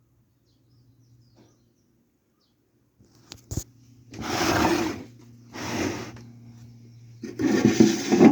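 Kawamoto N3-156SHN well pump's electric motor humming, stopping briefly and starting again about three seconds in. Three loud, rough, noisy swells of about a second each come over the hum, typical of the abnormal motor noise the seller reports.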